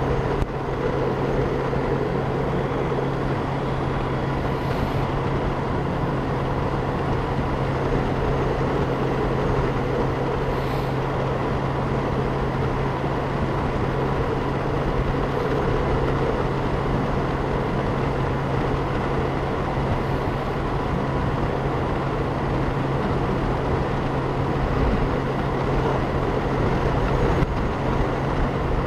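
Steady wind rush and road noise from a Honda Gold Wing motorcycle riding at speed, with a constant low engine hum, picked up by a helmet-mounted camera's microphone.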